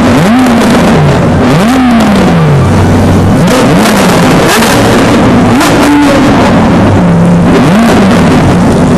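A car engine being revved repeatedly, very loud: about five quick blips of the throttle, each rising in pitch and falling back over the steady running note.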